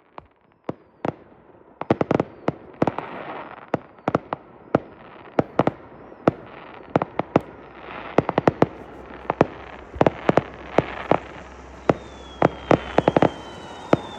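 Consumer fireworks going off at irregular intervals, many sharp bangs of varying distance over a steady crackle. A few scattered bangs in the first couple of seconds, then a dense barrage.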